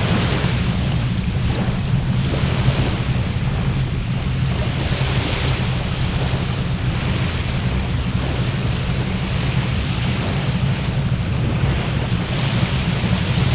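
Wood bonfire burning with a steady rushing noise and wind buffeting the microphone, over a constant high-pitched whine.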